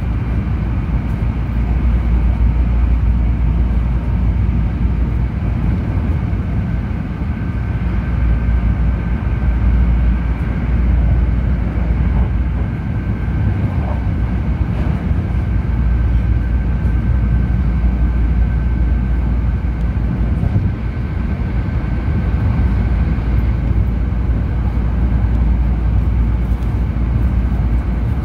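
Hankyu Railway Kyoto Line limited express train running at speed, heard from inside the carriage: a steady low rumble with a faint steady high whine above it.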